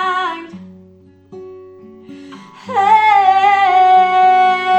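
A woman singing a slow song over acoustic guitar. A held, wavering note ends just after the start, the guitar plays alone for about two seconds, then she holds another long note.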